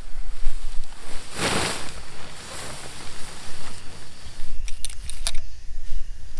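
Rustling handling noises: a loud swish about a second and a half in and a quick cluster of sharp clicks near the end, over a steady hiss and low rumble.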